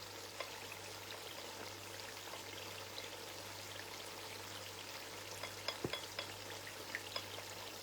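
Food frying faintly in a pan, a soft steady sizzle with scattered small crackles.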